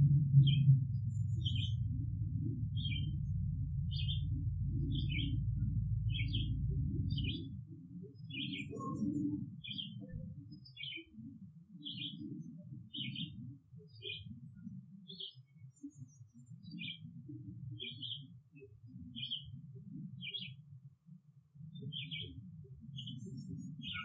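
A bird repeats a short chirp a little more than once a second, over a low rumble that is strong for the first seven seconds or so and then drops to a faint, uneven rumble.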